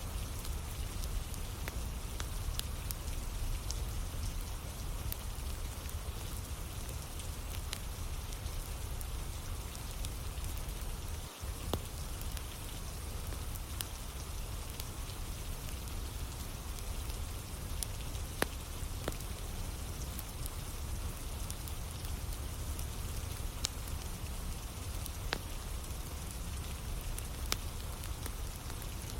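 Steady rainfall with scattered sharp pops and crackles from a wood fire burning on a rainy day.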